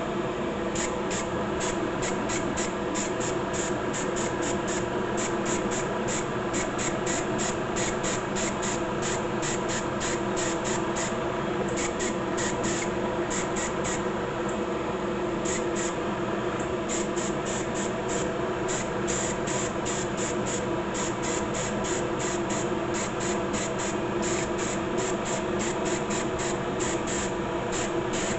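Clear coat being sprayed onto a plastic model kit in many short, repeated hissing bursts, about two or three a second, over a steady hum and hiss.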